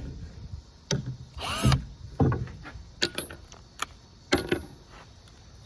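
Short whirs of a drill/driver backing out a wood screw in the first two seconds, then a few sharp clicks and taps as the screws are handled.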